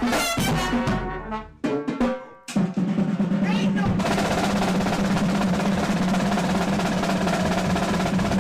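A live brass band plays a few short, clipped chords, then a snare drum roll starts about two and a half seconds in and runs on unbroken.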